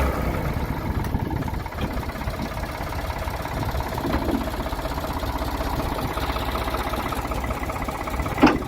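1984 Ford 555B backhoe's diesel engine running at a steady idle. A short chirp sounds near the end.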